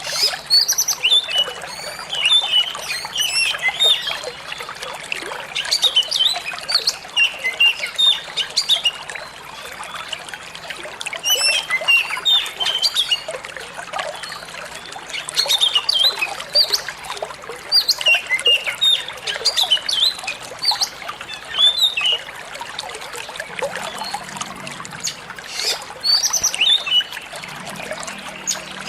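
Water trickling steadily, with many small birds chirping and twittering in quick, high calls throughout.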